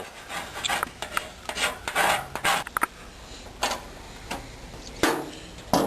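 Irregular hand rubbing and scraping strokes on a motorcycle gas tank, lifting acetone-softened decal adhesive off the paint. There is a quick run of strokes in the middle and a few more near the end.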